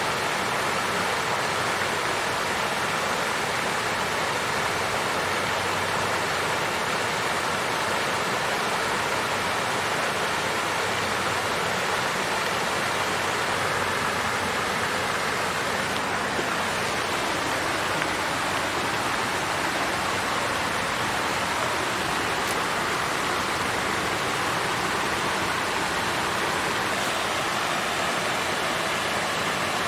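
Water fountain flowing and splashing steadily: an even rush of falling water that does not change or break.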